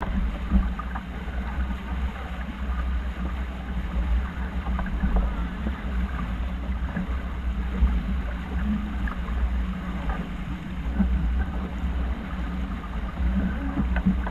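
Water washing past a sailing yacht's hull while it is under way, with wind rumbling on the microphone, a steady low hum and scattered light clicks.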